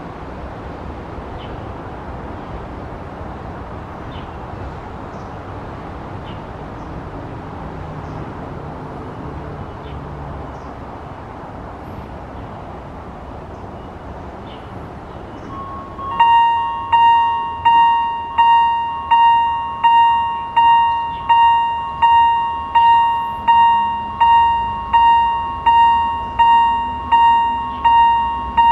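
Steady traffic noise, then about 16 seconds in a level crossing's electronic warning bell starts ringing, a loud ding repeating about four times every three seconds, each strike fading before the next.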